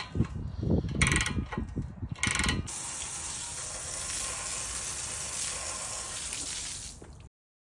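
Ratchet wrench tightening bolts: two bursts of rapid clicking about a second and two seconds in, with a few low knocks. After that comes a steady hiss, which cuts off suddenly near the end.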